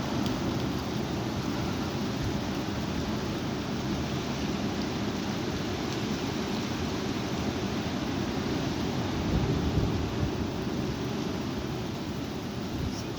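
High wind blowing and rumbling on the microphone, a steady rushing noise that swells in a stronger gust about nine seconds in.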